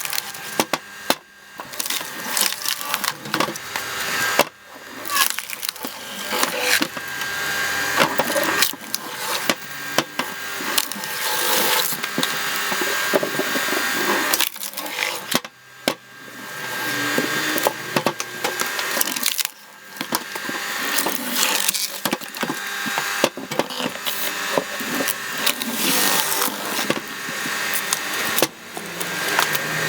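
Screw-cone log splitter boring into logs, the wood cracking and splintering as it is forced apart. The cracking comes in several long runs with brief pauses between them, over a faint steady motor whine.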